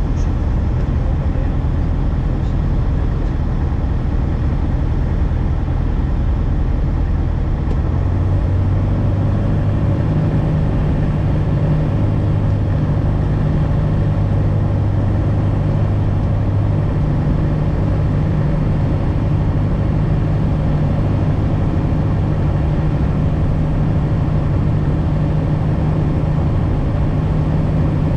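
Light propeller aircraft's piston engine and propeller droning steadily; its low hum becomes steadier and more pronounced about nine seconds in.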